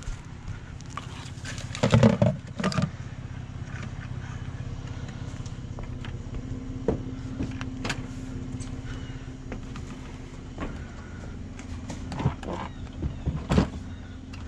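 A vehicle engine idling steadily, under a loud clatter of knocks about two seconds in and scattered lighter clunks later. The knocks and clunks come from salvaged items such as plastic buckets being handled and loaded into a pickup bed.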